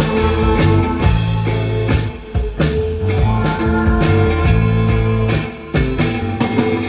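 Live rock band playing an instrumental passage on electric guitar, bass and drum kit, with steady drum and cymbal hits; the band stops briefly twice, a little over two seconds in and again at about five and a half seconds.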